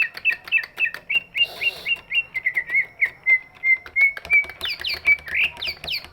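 Cucak ijo (greater green leafbird) singing a continuous string of rapid, sharp chirping notes, about four or five a second. About two seconds in they run together into a quicker trill, and near the end they jump to higher sweeping notes.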